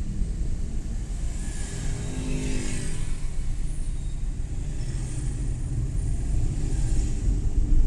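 Suzuki Every Wagon kei van driving, heard from inside the cabin: a steady low rumble of engine and tyre noise. About two seconds in, an engine note swells briefly and fades.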